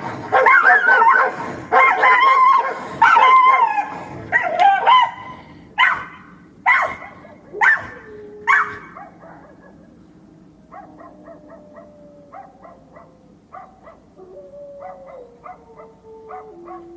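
A dog barking and yelping in a rapid, excited run, then four single sharp barks about a second apart. After that come fainter short yips over a thin whine.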